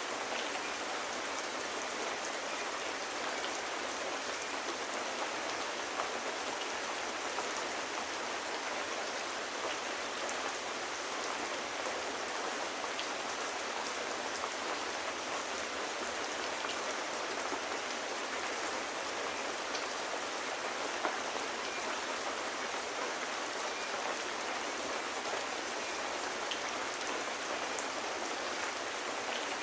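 Steady rain falling, an even hiss with no low rumble, with a few faint ticks here and there.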